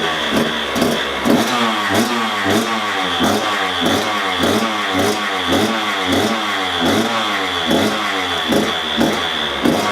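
Husqvarna TC 125 two-stroke dirt bike engine running and being revved in quick throttle blips, its pitch rising and falling about twice a second.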